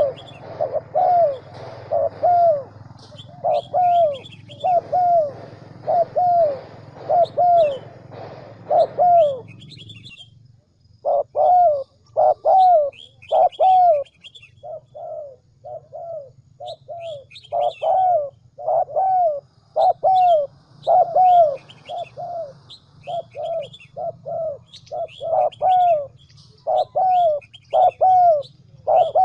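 Spotted dove cooing in long, fast runs of short, falling coos: a decoy call of the kind played to lure wild spotted doves into a trap. The cooing breaks off briefly about ten seconds in and resumes, while smaller birds chirp faintly at a higher pitch.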